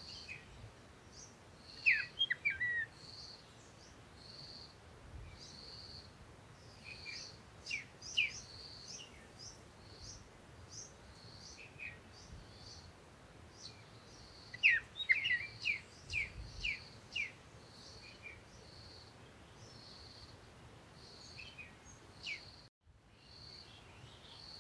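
Small birds chirping in quick clusters of sharp, falling notes, over a high note repeating about once a second. There is a brief break in the sound near the end.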